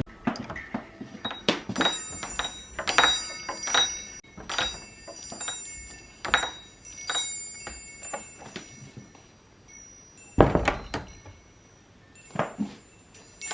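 Murano glass pieces clinking and knocking against each other and a hard surface while being handled and cleaned, irregular sharp taps with short high ringing, the loudest about ten seconds in.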